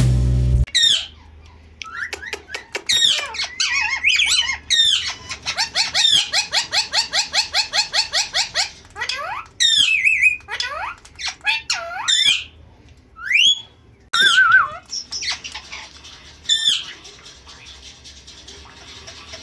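Indian ringneck parakeet calling: sharp squawks that sweep up and down in pitch, and a fast run of repeated notes, about five a second, lasting several seconds.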